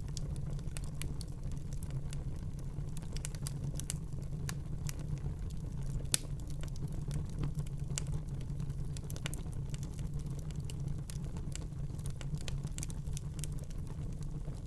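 Wood fire burning in a fireplace: a steady low rumble of the flames with frequent irregular crackles and small pops, one louder pop about six seconds in.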